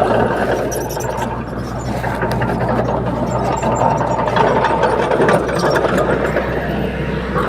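Komatsu D21P bulldozer's diesel engine running steadily, with scattered light metallic clicks and clatter.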